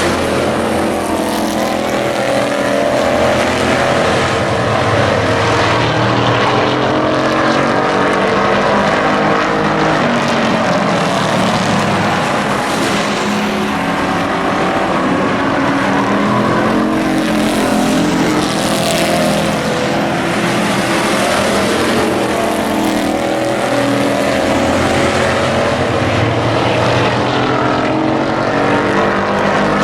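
Several race truck engines running at speed around an oval, the overlapping engine notes rising and falling as trucks pass, with no pause in the noise.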